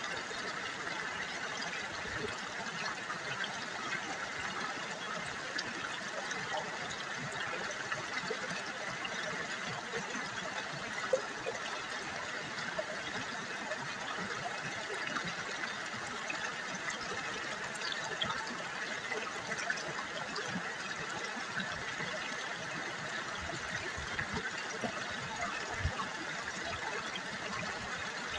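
River water babbling and trickling steadily over stones, with a few brief sharper splashes, the loudest about 11 seconds in.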